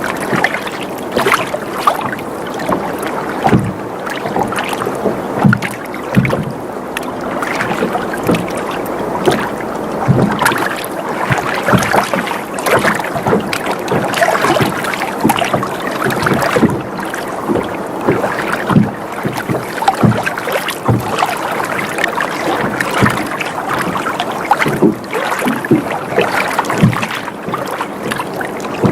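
Water sloshing and lapping against a small boat's hull in irregular slaps and splashes as the boat rocks gently.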